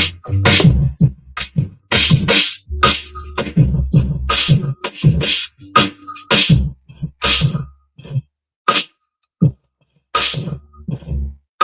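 Hip-hop beat played back from a Maschine MK3 groovebox: punchy drum hits and chopped sample stabs over a deep bass. It thins to a few single hits and drops out briefly about three-quarters through, then starts again.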